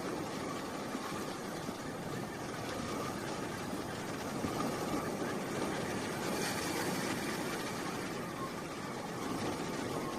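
Boat engine running steadily at idle, with a brief hiss of water or spray about six and a half seconds in.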